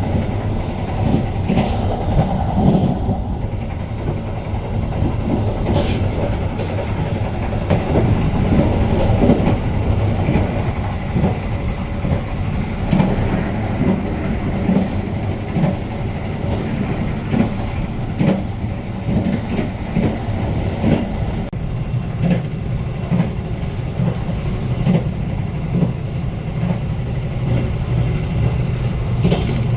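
Argo Bromo Anggrek passenger train running along the track, heard from on board. It makes a steady low rumble with irregular clicks and knocks of the wheels over the rails.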